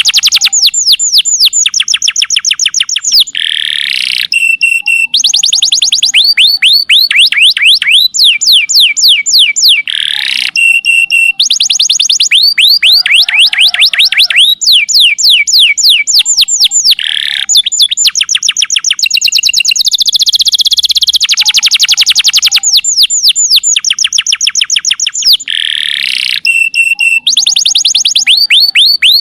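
Canary singing loudly in long, fast trills of repeated down-sweeping notes, run after run, broken by short buzzy notes every few seconds.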